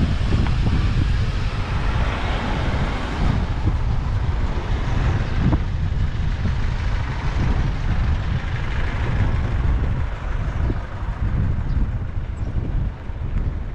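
Strong wind buffeting the microphone: a heavy rumble that rises and falls with the gusts, under a hiss that swells twice.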